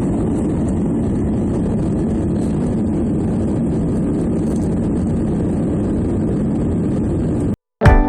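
Steady cabin noise of an Airbus A320 in flight: a constant rush of engine and airflow. It cuts off suddenly near the end, and strummed acoustic guitar music begins.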